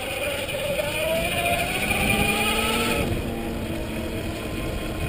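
Electric mountain bike motor whining as the bike pulls away, its pitch rising over the first two to three seconds, dipping, then climbing again near the end. Tyre and wind rumble sit underneath.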